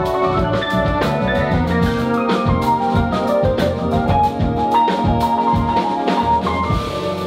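Instrumental band music: keyboard notes over a busy drum kit, in a steady groove.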